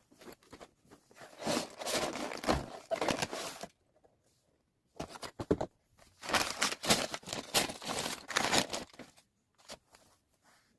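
Crinkling and rustling of handled plastic packaging, such as LEGO parts bags, mixed with small clicks. It comes in two stretches: one of about two seconds starting a second in, and a longer one of about four seconds starting near the middle, with a few stray clicks near the end.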